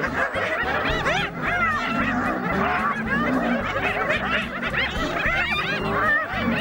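Spotted hyenas giggling: many short, overlapping rising-and-falling yelps, the excited calls of a pack squabbling at a kill. Background music with a steady low beat runs underneath.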